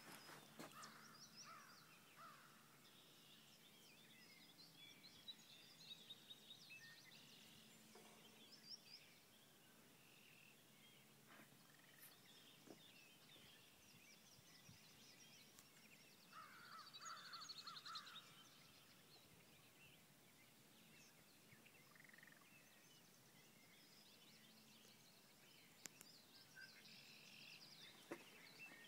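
Faint songbirds chirping and calling, with a louder burst of trilling about seventeen seconds in and a few soft knocks now and then.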